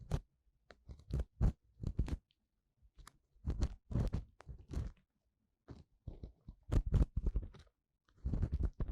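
Ear-cleaning tool scraping and rubbing inside the ear of a 3Dio binaural microphone: irregular bursts of close crackling scratches with short pauses between them.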